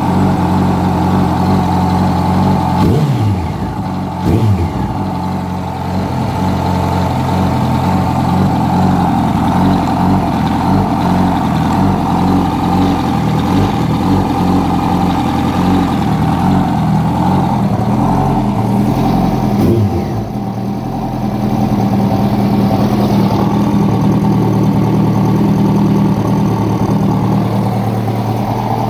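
2006 Yamaha R1 inline-four engine idling, blipped briefly twice near the start and once about two-thirds through, the revs falling straight back to idle each time. It is running with an abnormal engine noise that turned out to be a worn #4 connecting-rod bearing.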